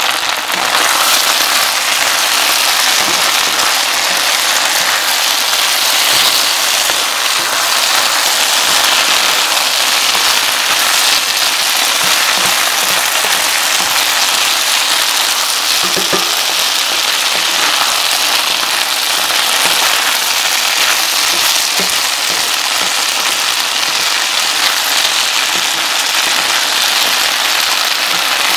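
Chicken, peppers, onion and peanuts sizzling in hot oil in a stir-fry pan as they are turned with a wooden spatula: a loud, steady crackling hiss.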